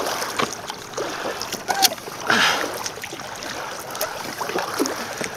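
Kayak paddle working the water: splashing and dripping from the blades, with one louder swish of a stroke about two and a half seconds in.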